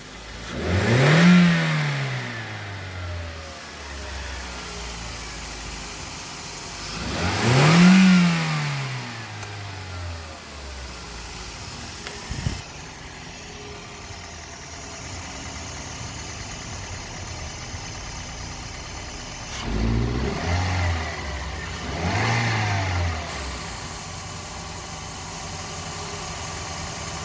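Toyota Vios engine blipped from idle, rising in pitch and falling back: two long revs in the first ten seconds, then idling, then two shorter revs near the end. It is being revved to check a hesitation on acceleration that seems like a delay, with the engine choking when accelerated suddenly.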